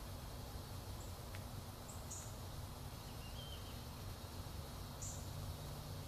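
A few brief, high-pitched bird chirps, three or four in all, over a steady low background rumble, with one faint click.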